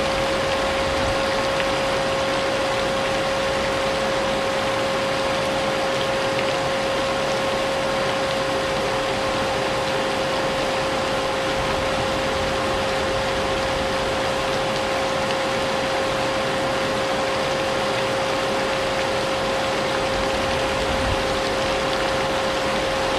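Vacuum cleaner running steadily, its motor holding one constant whine, mixed with the even hiss of falling rain.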